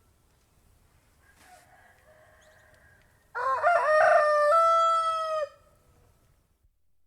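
Domestic rooster crowing. After a faint call about a second in, one loud cock-a-doodle-doo of about two seconds starts with short rising notes and ends on a long held note that drops at the very end.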